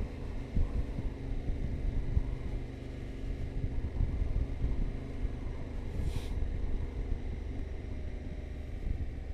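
Yamaha Ténéré 700's parallel-twin engine running steadily while riding, over an uneven low rumble of wind and road on the microphone. A brief hiss comes about six seconds in.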